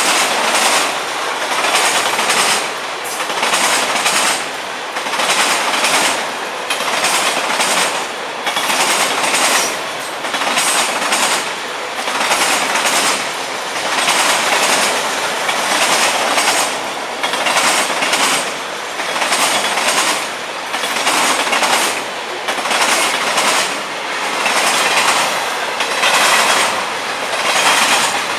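Freight cars of a long train rolling past, wheels clattering over the rail joints. The sound swells and dips about every two seconds as each car goes by.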